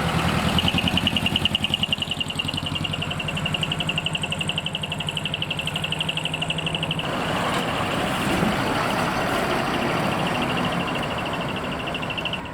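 Heavy diesel truck engine running with a fast, even pulsing, and a steady high-pitched tone above it. About seven seconds in, the engine's low pulsing fades and a rushing hiss comes up.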